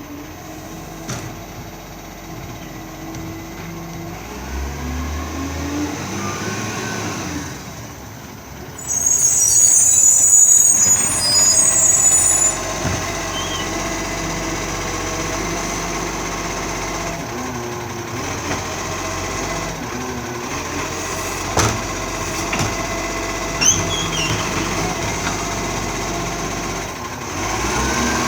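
Green waste garbage truck running, with a loud hiss of released air lasting about three seconds, about nine seconds in. A few brief clicks and a short squeal follow.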